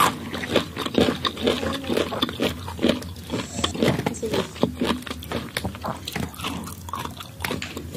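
Close-miked chewing of crisp unripe green mango: irregular wet crunches and mouth smacking. Water trickles from a plastic bottle into a glass around the middle.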